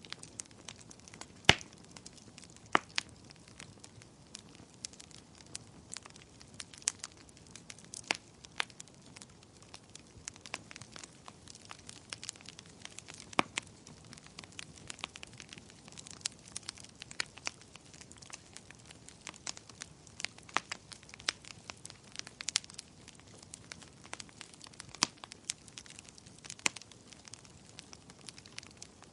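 Fireplace fire crackling: irregular sharp pops and snaps, several a second, over a faint low hiss, with one loud pop about a second and a half in.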